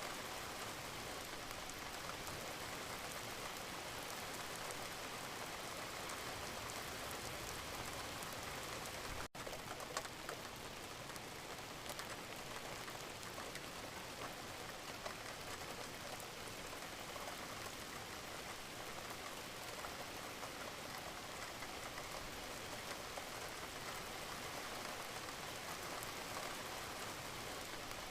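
Wood fire burning in a fireplace: a steady hiss full of small crackles, with a sharper pop about ten seconds in, just after a momentary dropout in the sound.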